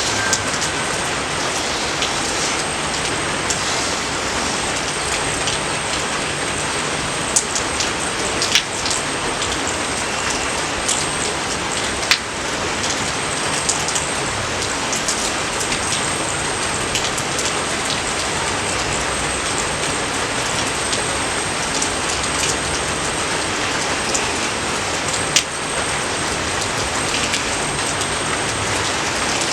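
Steady rain falling in a dense even hiss, with now and then a single sharper drop striking close by.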